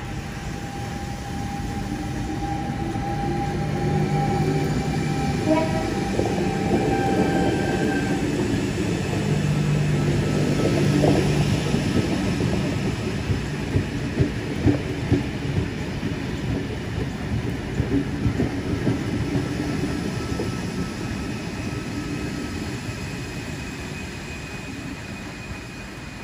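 Double-deck electric intercity train running past a platform, with a steady hum of its motors and wheels. The sound builds toward the middle, then the wheels clack over rail joints in a run of sharp knocks before it eases off.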